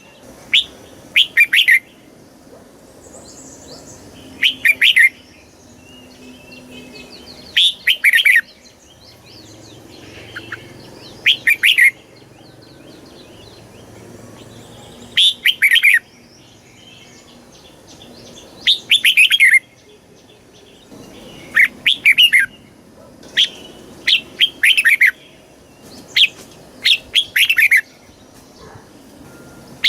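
Red-whiskered bulbul singing short, loud phrases of quick warbling notes, repeated every few seconds, with faint chirping between the phrases.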